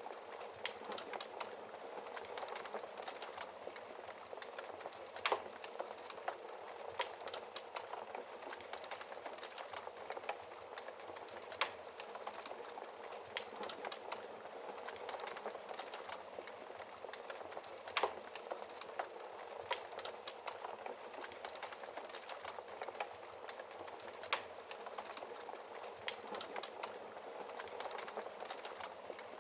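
Wood fire burning in a fireplace: a soft steady hiss of flames with irregular crackles and sharp pops from the burning logs, a few louder pops scattered through.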